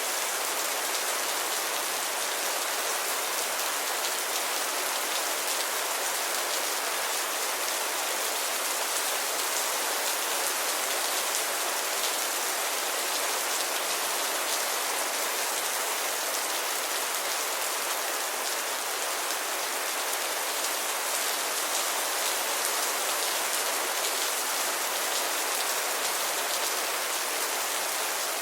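Steady rainfall, a dense even hiss of drops pattering on a surface, with no thunder.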